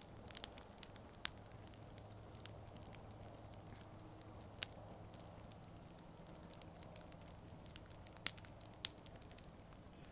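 Wood campfire burning and crackling, with about a dozen sharp pops at irregular intervals.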